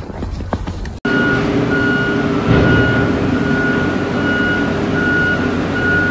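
Vehicle reversing alarm beeping steadily, about once every three-quarters of a second, over a running truck engine. Before it, about a second of scattered clicks and knocks.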